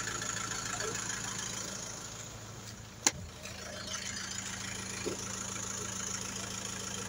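A vehicle engine idling steadily, with one sharp click about three seconds in.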